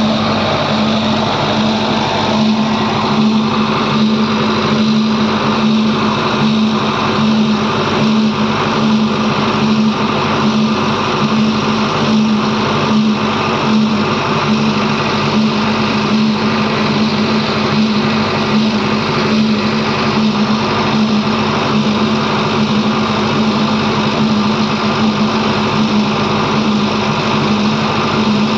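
Diesel engine running steadily under light load, with a faint regular pulsing.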